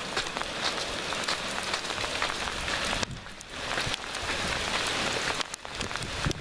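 Heavy downpour of rain and small hail pelting the ground and plants, a dense hiss peppered with many sharp ticks of individual hits, easing briefly a little past halfway.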